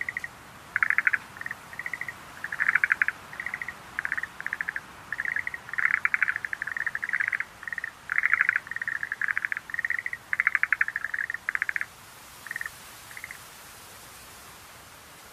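Schlegel's green tree frogs calling: a dense run of short, rapid pulsed trills, high-pitched and overlapping, that stop about twelve seconds in, with two last faint calls, leaving a steady hiss.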